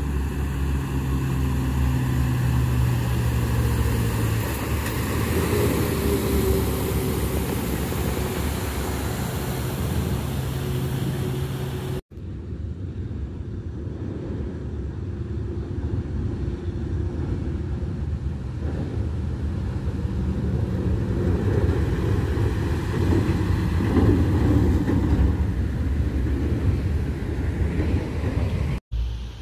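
Heavy diesel truck engines running under load, with low engine tones that shift in pitch. The sound cuts off abruptly about twelve seconds in and goes straight on into another truck's engine with less hiss.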